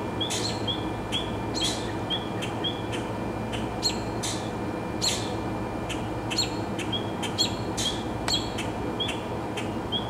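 Small birds chirping: short high notes repeating about twice a second, with sharper sweeping chirps mixed in, over a steady low background hum.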